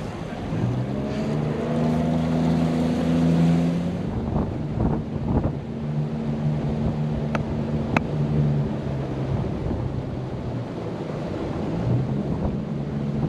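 Motorboat engine running at a steady speed, with wind buffeting the microphone and water noise around the hull.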